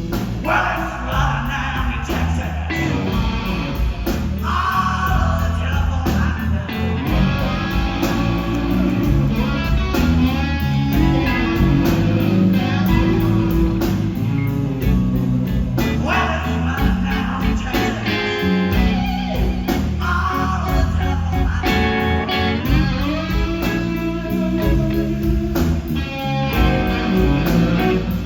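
Live blues band playing a slow blues, with a lead electric guitar soloing and bending notes over bass and drums.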